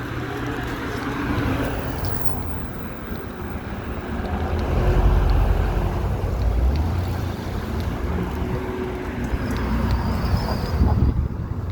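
Wind buffeting the microphone: a loud, uneven low rumble that swells and falls, strongest about halfway through and again near the end.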